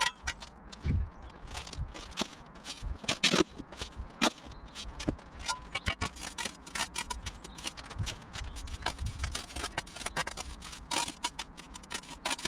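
Irregular sharp clicks, taps and short scrapes of hand work on stone paving slabs and mortar while a slab is being laid.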